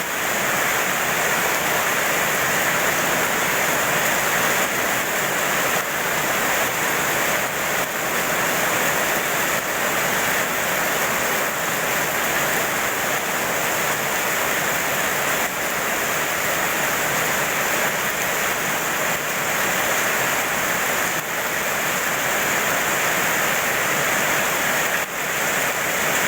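Steady heavy rain falling, an even rushing hiss that does not let up.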